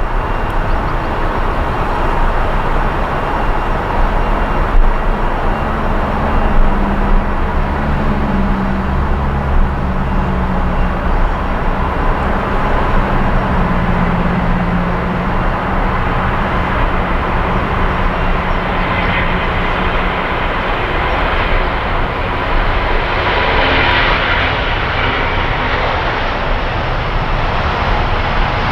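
Airliner engines with a steady rumble and humming low tones; a higher-pitched roar builds up over the last few seconds.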